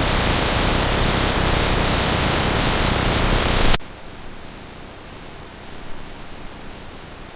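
Steady, dense rain hiss that cuts off suddenly about halfway through, giving way to a much quieter, even hiss.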